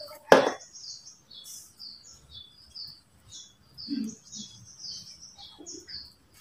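A small bird chirping over and over in quick short high notes, several a second. A single sharp click about a third of a second in is the loudest sound.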